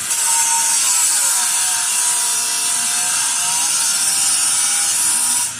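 Power tool grinding or cutting steel, likely an angle grinder: a steady bright hiss with a motor whine that sags in pitch under load midway and recovers.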